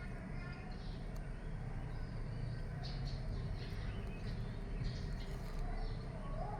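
Small birds chirping in short high calls, a few at a time, over a steady low rumble.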